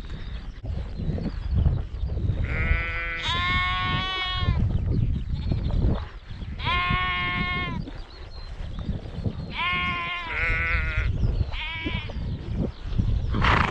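Sheep bleating over and over: about five wavering calls of a second or so each, some overlapping, over a low rumble.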